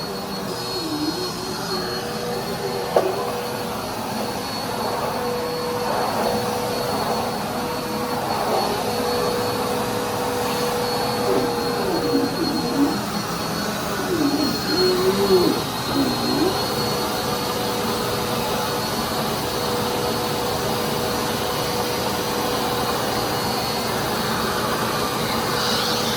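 Dirt Devil Endura Compact bagless upright vacuum cleaner running steadily with a constant whine. Its sound wavers and dips briefly several times around the middle.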